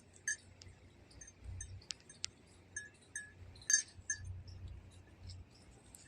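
Faint, scattered light clinks and ticks, a sharper one a little under four seconds in, over an intermittent low rumble.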